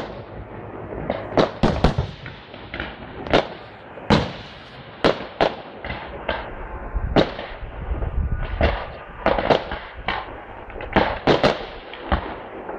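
Fireworks display: about twenty loud aerial shell bursts and bangs in an irregular, rapid string, with a low rumble under them near the middle.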